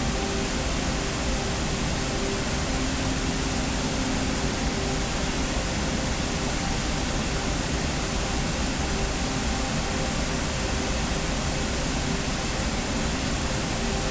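Waterfall pouring into a plunge pool: a steady, even rushing noise.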